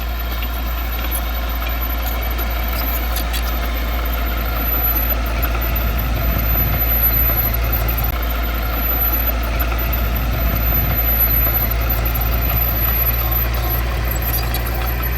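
Heavy diesel engine of earthmoving equipment running steadily at low revs, a constant low rumble with no sharp changes.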